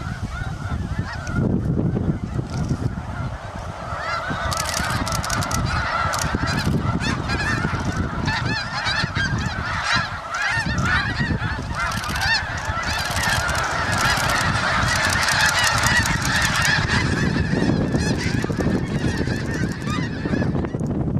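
A large flock of geese honking together in a dense, continuous chorus over a low rumble.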